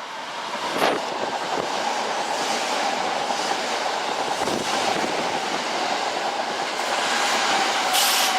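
A Kintetsu electric train running past at the station, its wheels knocking now and then over rail joints with a steady high whine over the rolling noise.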